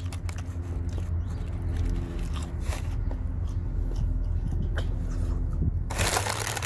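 A person chewing a McNugget with mouth closed: soft crunches and small clicks over a steady low hum. About six seconds in, a loud rustle of a paper fast-food bag as a hand reaches into it.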